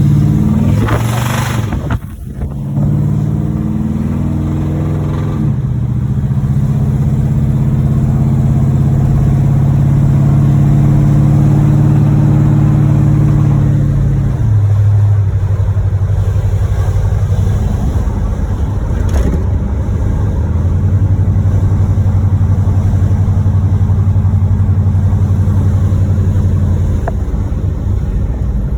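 Small-block Chevy 355 V8 of a 1986 Monte Carlo SS pulling the car along; the engine has a rod knock in its bottom end. The engine note climbs and holds, then drops suddenly about halfway through and settles into a lower steady drone.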